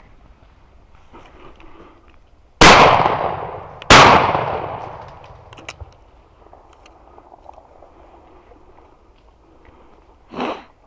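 Two shotgun shots just over a second apart, each echoing away over a couple of seconds. A brief, much fainter sound comes near the end.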